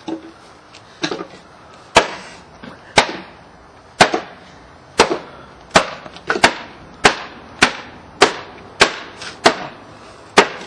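Repeated sharp blows breaking up wood, about one a second at first, coming faster after about five seconds.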